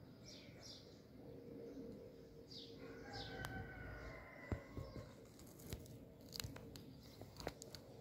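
Faint birdsong: short, high, falling chirps in the first three seconds and a longer, steadier call about three seconds in. A few sharp clicks come in the second half, over a faint steady hum.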